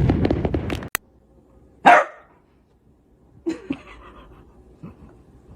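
A dense run of crackling pops cuts off just under a second in. About two seconds in, a dog gives one loud bark, followed by a few faint, short sounds.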